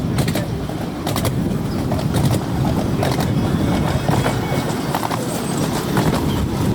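A 7¼-inch gauge miniature railway train running along the track: a steady low rumble with scattered clicks.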